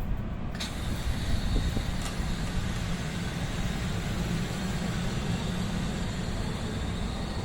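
A passing NJ Transit train at speed: a steady rush of wheel and rail noise over a low rumble, which jumps up sharply about half a second in as the train draws level.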